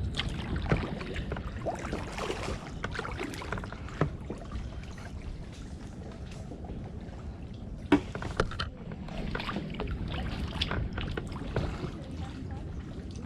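Kayak paddling: paddle blades dipping and dripping in water, with scattered knocks and clicks, the sharpest about eight seconds in.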